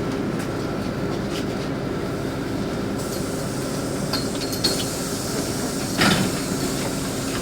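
LiAZ 5292.65 city bus heard from inside the cabin while driving: a steady drone of engine and road noise, with a few short rattles and a louder clunk about six seconds in from loose interior fittings.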